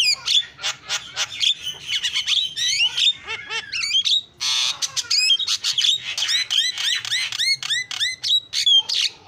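Javan myna singing a fast, varied song of whistles, chirps and slurred notes, with a harsh rasping squawk about halfway through.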